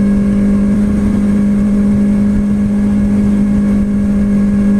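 Kawasaki Ninja ZX-6R 636 inline-four engine running at steady revs, one unchanging tone, with wind rushing over the microphone.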